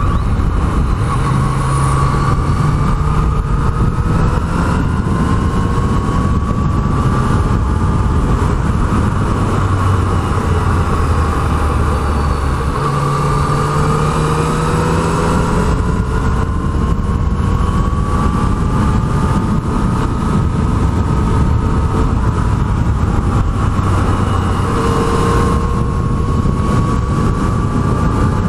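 Yamaha MT-09's three-cylinder engine running on the move, its pitch slowly climbing and dropping back several times as the bike accelerates and shifts, over a steady rush of wind and road noise.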